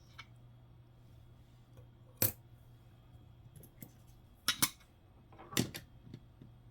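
Nickels clicking against each other and the surface as they are handled and set down: one sharp click about two seconds in, then two quick pairs of clicks later on, with a few fainter ticks, over a faint steady hum.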